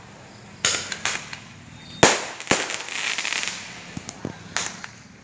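Firecrackers going off: sharp bangs, loud ones just under a second in and about two seconds in, followed by crackling and a scatter of smaller pops.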